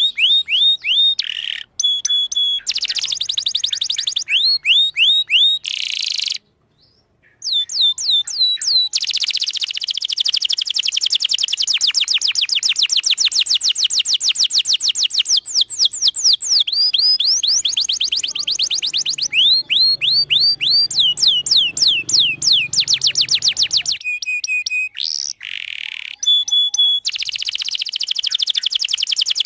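Domestic canary singing a long, continuous song made of fast trills, each a run of one repeated note, switching between tours of different notes. It is briefly silent for about a second near a quarter of the way in.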